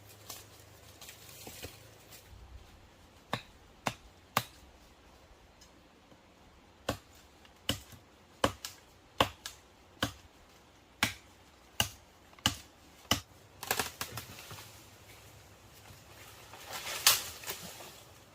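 A series of sharp, irregular knocks or taps, roughly one every half second to a second, then a brief, louder scraping rustle near the end.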